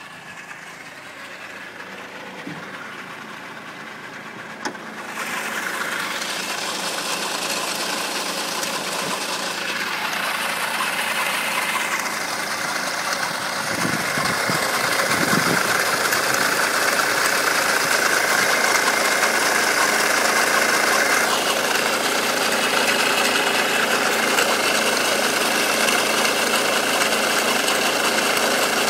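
Honda Accord engine running steadily while warm, heard in the open engine bay; it gets louder about five seconds in. It carries strange vibrations through the whole body, which the owner suspects come from the timing chain.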